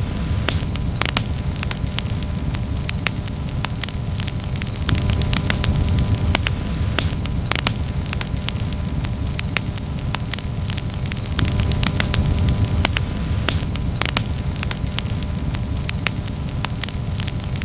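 Campfire crackling: frequent sharp pops and snaps at irregular intervals over a steady low rumble.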